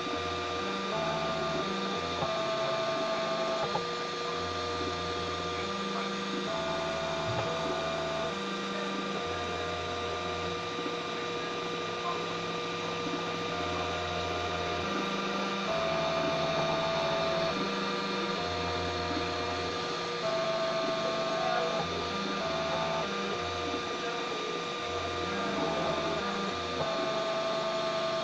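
3D printer's stepper motors whining at changing pitches, each tone starting and stopping every second or so as the print head moves, over a steady hum.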